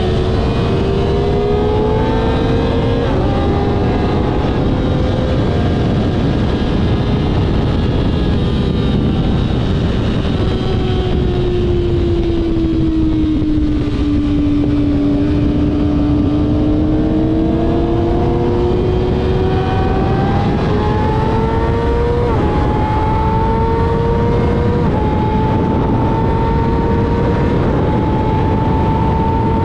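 Kawasaki ZX-6R inline-four engine heard onboard under a heavy wind rush: the revs ease off and sink through the middle, then climb again with several quick upshifts near the end.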